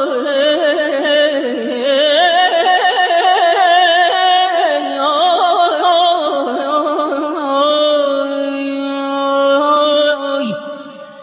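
A solo voice singing a long melismatic line, with fast warbling trills and ornaments throughout, in a husky, plaintive tone; about ten seconds in the pitch slides down and the voice fades out.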